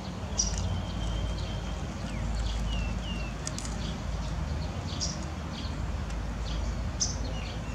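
Birds chirping intermittently, short high chirps and a few brief whistled glides, over a steady low rumble.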